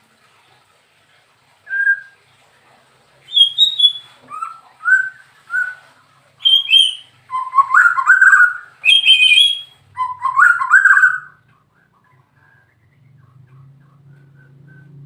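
White-rumped shama (murai batu) singing: a string of short, clear whistled phrases, sparse at first and then fuller and more rapid, stopping about three-quarters of the way through. A faint low hum comes in near the end.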